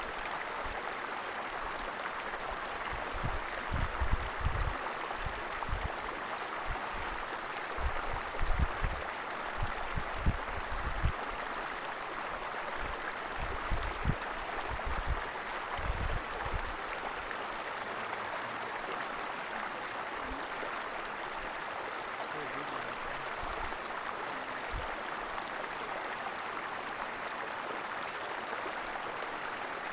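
Waterfall rushing steadily, with irregular low thuds and rumbles through roughly the first half.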